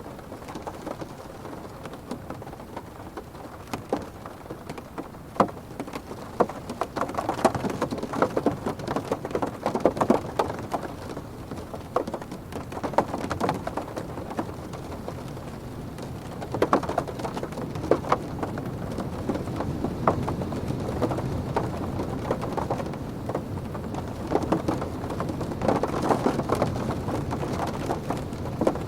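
Heavy rain drumming on a car's roof and windows, heard from inside the cabin as a muffled, dense patter full of sharp drop hits. It swells louder and eases off again, as if in gusts of wind.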